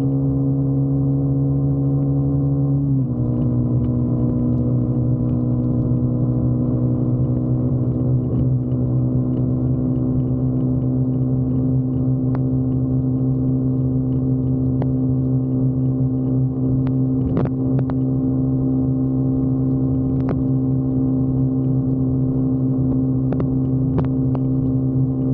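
Motorcycle engine running at a steady cruising speed on the highway, a held even drone whose pitch steps down slightly about three seconds in, with a few faint ticks.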